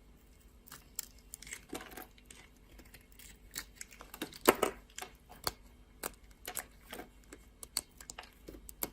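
Knife cutting into dry soap: irregular, crisp crunching clicks and cracks, the loudest about halfway through.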